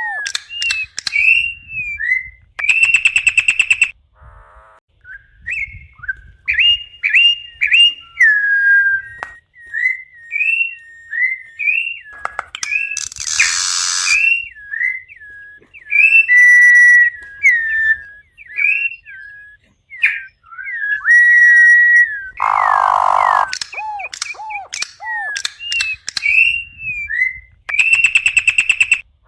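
A corrupião (campo troupial) singing: phrases of loud, clear whistled notes, many of them short hooked slurs, broken every few seconds by a harsh, rasping buzz.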